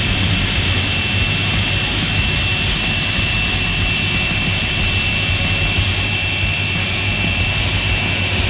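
Boeing 747-400's four Rolls-Royce RB211 turbofans running at taxi power: a steady high-pitched whine over a low rumble.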